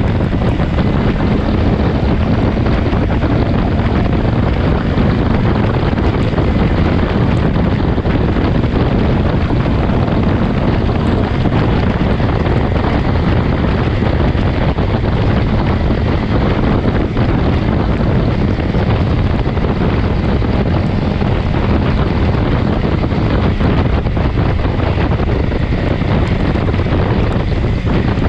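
Steady wind rush buffeting the microphone on a moving motorcycle, with the low hum of the BMW S1000XR's engine underneath.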